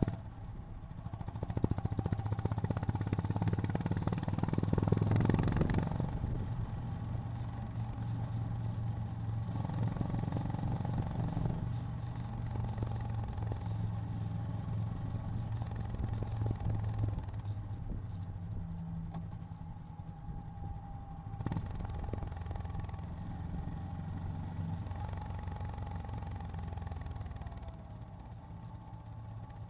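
Honda GB350's single-cylinder engine running on the move, louder a few seconds in, then holding a steady note and dropping in level near the end.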